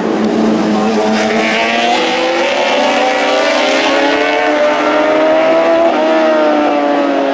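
Superbike racing motorcycles at high revs passing on the road circuit. Several engines sound at once, their pitch gently rising and falling as the group goes by.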